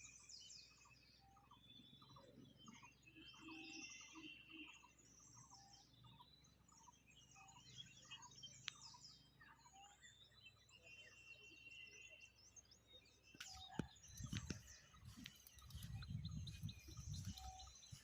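Faint birdsong from several birds: many quick chirps and trills, with one bird repeating a short hooked note about twice a second. From about two-thirds of the way in come low rumbles and a few clicks.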